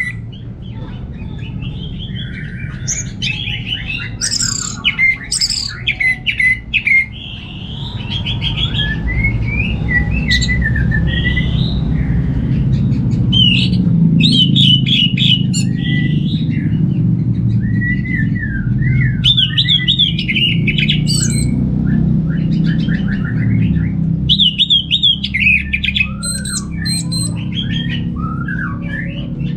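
Orange-headed thrush singing: a long run of varied, quick whistled phrases and rapid trills with few pauses, over a steady low rumble.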